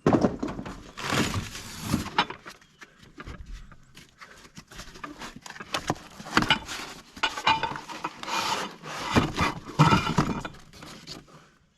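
Cardboard packaging rustling and crackling as a boxed fifth-wheel hitch is unpacked, with irregular knocks and clicks of parts being handled.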